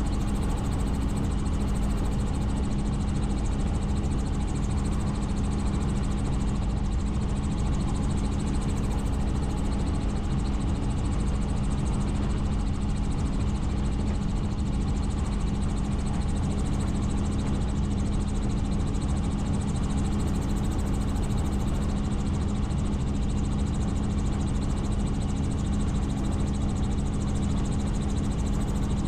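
Helicopter in flight, its engine and rotors making a steady, unchanging drone with a strong low hum over a deep rumble.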